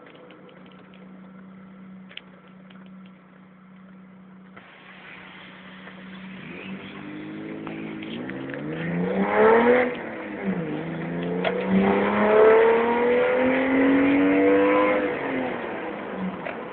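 BMW E30 320i's straight-six engine through a home-made stainless steel exhaust, idling steadily and then revved twice. The first rev climbs from about seven seconds in and drops back just before ten seconds. The second is held longer and louder, then falls back toward idle near the end.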